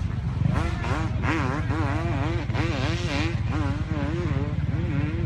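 Dirt bike engine revving up and down in quick waves, its pitch rising and falling about twice a second.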